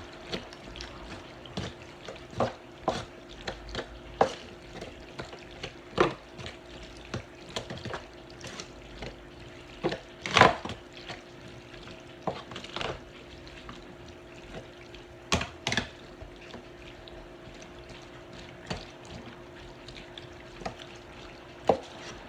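A utensil stirring cooked macaroni noodles through thick cheese sauce in a pan: irregular wet squelches and scrapes, with sharp clinks against the pan, the loudest about halfway through.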